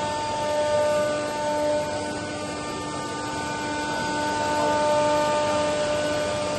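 Router spindle running steadily while milling an MDF cabinet front: a steady whine over the hiss of cutting, swelling a little in loudness.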